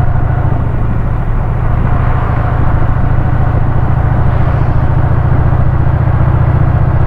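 Motorcycle engine running steadily under way, a low, evenly pulsing exhaust note that holds the same pitch throughout.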